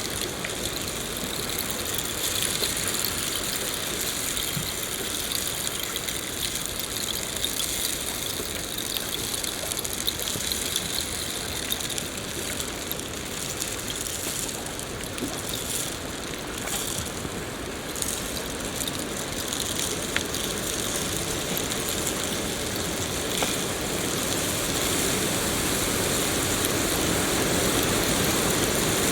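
Steady rain falling in a forest, an even hiss of many drops, growing a little louder near the end.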